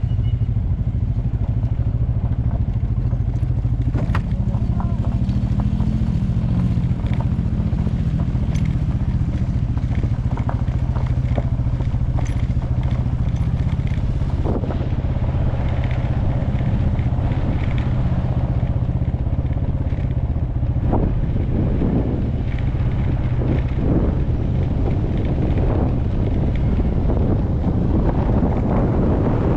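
Motorcycle engine running at low revs on a loose dirt trail, its pitch rising slightly about five seconds in, over a steady low rumble. Tyres crunch and click over loose dirt and stones.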